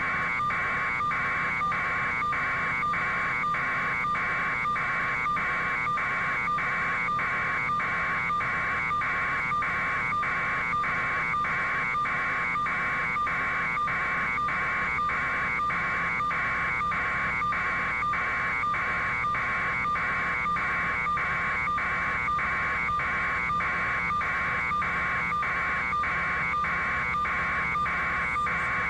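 A pulsing electronic alarm tone, about one and a half beeps a second, repeating steadily without a break over a low hum.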